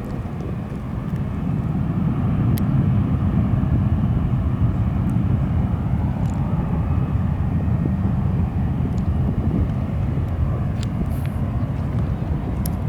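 United Express airliner's engines at takeoff power, a steady low rumble that swells about two seconds in and eases a little toward the end.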